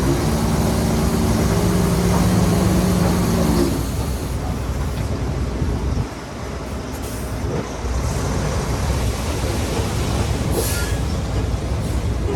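Heavy diesel construction machinery working. For the first few seconds an engine holds a steady, unchanging pitch; after that the sound becomes a dense, low mechanical noise with no clear pitch.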